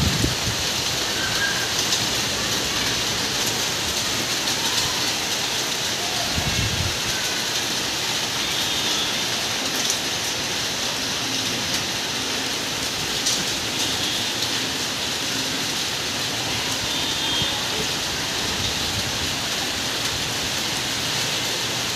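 Heavy rain pouring steadily in a constant hiss, with a brief low rumble about six seconds in.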